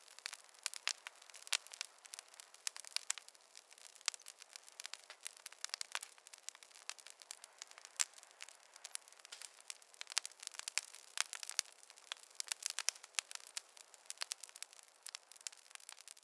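Campfire crackling: burning wood giving a dense, irregular run of small snaps and pops, with a few louder pops now and then.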